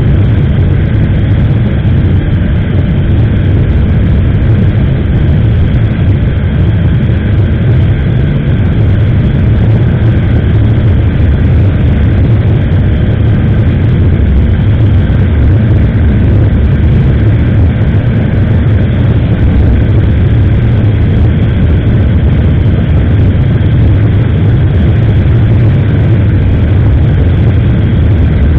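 Motorcycle riding at speed: a steady, loud rumble of wind on an action camera's microphone mixed with the running engine.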